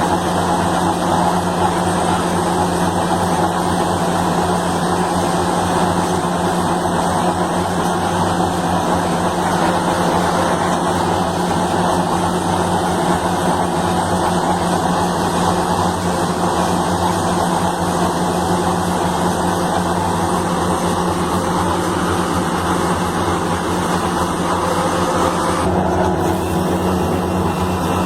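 Engine of a heavy road-construction machine running steadily under load, with a steady low hum. About three seconds before the end the sound shifts to a slightly different engine note.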